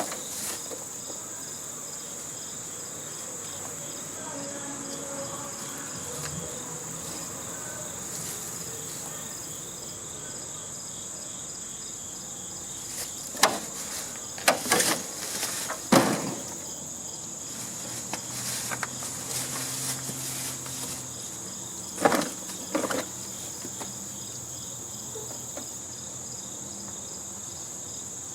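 A steady high-pitched chorus of insects shrilling outdoors throughout, with a few sharp knocks, like tools on metal, in quick succession around the middle and twice more later.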